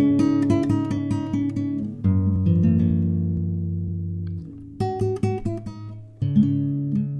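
Acoustic guitar playing an instrumental passage: chords struck and left to ring out, with picked notes in between.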